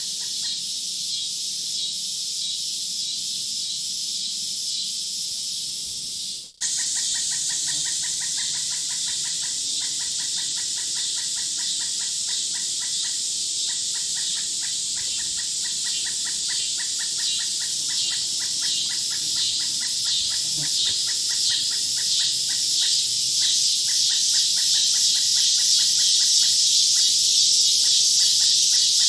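Recorded nature ambience of insects and birds: a steady high, pulsing drone, then after a sudden break about six seconds in, a denser chorus of rapidly repeated calls over it, growing slowly louder.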